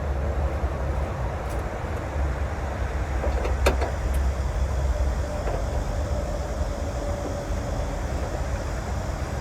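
Steady low rumble of a motor vehicle running, with one sharp click about three and a half seconds in.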